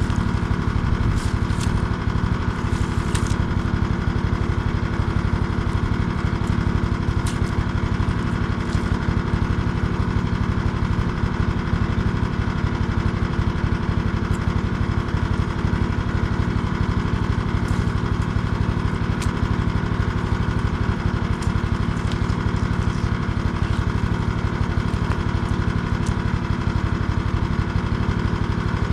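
Small engine running steadily at an even speed, with a few faint clicks over it.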